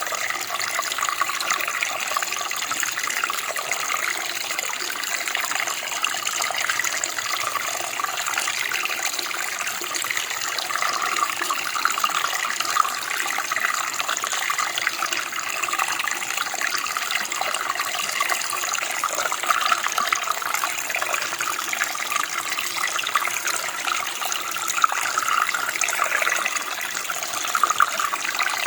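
Running water: a small stream or creek flowing steadily over stones, with a continuous splashing, gurgling rush.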